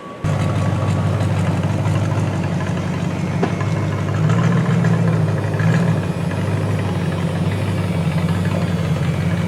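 A vehicle engine idling loud and close, with a slight rise in the middle. The sound cuts in abruptly just after the start.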